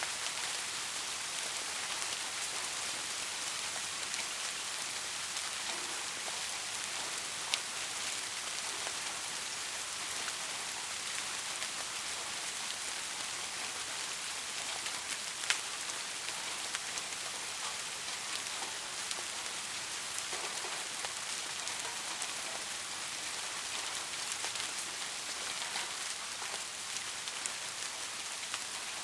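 Steady rain falling, an even hiss of many drops, with a couple of sharper single drop ticks about a quarter and half way through.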